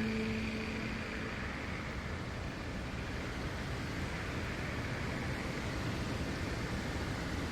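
Steady wind rushing through a forest, an even noise without change. In the first second the last held note of soft ambient music fades out under it.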